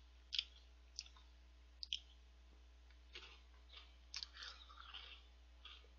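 Faint chewing of a crunchy chocolate star-shaped snack, with a few sharp crunches in the first two seconds and a longer spell of crackly chewing about three to five seconds in.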